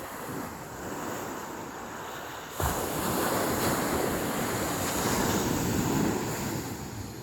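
Sea waves washing onto a beach. The surf gets suddenly louder about two and a half seconds in, then eases off near the end.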